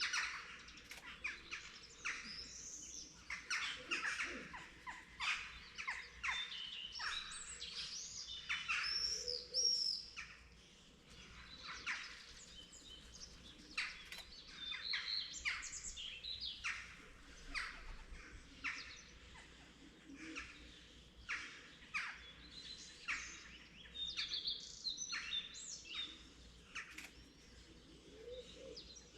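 Dawn chorus of several songbirds: many overlapping chirps and whistles, busiest in the first ten seconds or so, then thinner.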